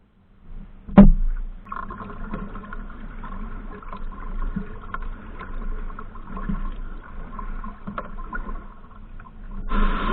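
A kayak out on the river: a sharp knock about a second in, then steady water noise with scattered knocks, swelling near the end before it cuts off suddenly.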